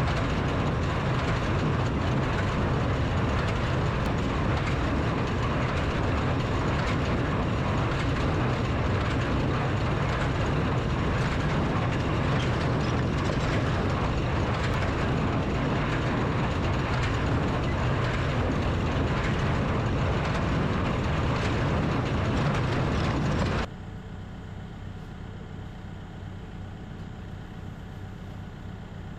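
Tractor pulling a New Holland Super Hayliner 78 wire-tie square baler through the hay, a loud steady mechanical clatter over a low engine hum. About 24 seconds in it cuts off suddenly to a much quieter steady hum.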